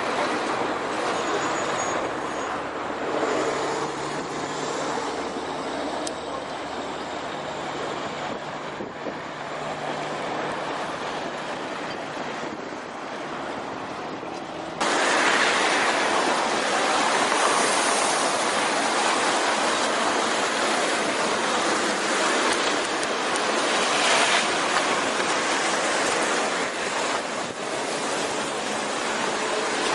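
Heavy trucks running on a road, a low engine hum under a steady rush of tyre and wind noise. About halfway through the sound cuts abruptly to a louder, even rush.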